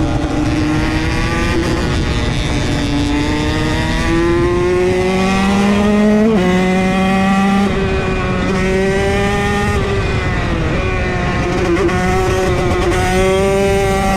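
Motorcycle engine under way, its pitch climbing steadily under acceleration and dropping sharply a few times, over a steady rushing noise.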